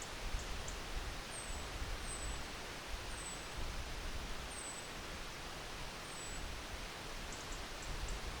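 Wind blowing through trees: a steady rustling hiss with a low rumble of gusts buffeting the microphone. Over it, a short, high, falling chirp repeats about every second or so, with a few faint high ticks.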